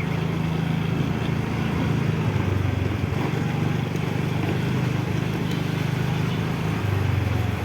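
A vehicle engine running steadily at low revs, with its pitch dipping a little a couple of times.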